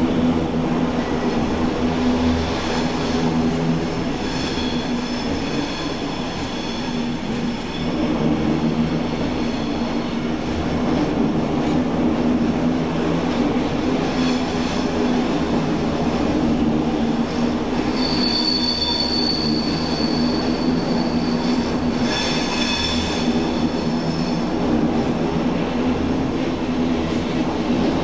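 Swiss SBB passenger coaches rolling slowly through a station with a steady rumble of wheels on rail. High-pitched wheel squeals come and go several times, the longest and loudest about two-thirds of the way through.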